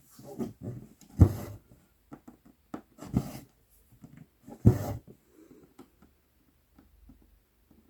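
Cross-stitch floss being drawn through 11-count Aida cloth with a size 24 needle: about four short swishing pulls in the first five seconds, then only faint small ticks.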